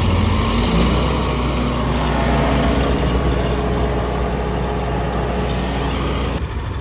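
Stump grinder engine running steadily just after start-up, with a deep rumble; a higher hiss over it cuts off suddenly shortly before the end.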